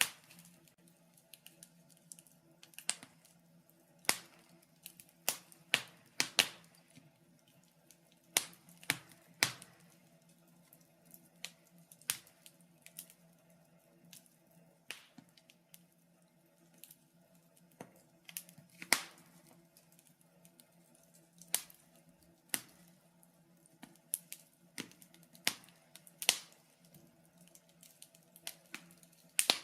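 Fireplace fire crackling, with irregular sharp pops and snaps, a few of them loud, over a faint steady low hum.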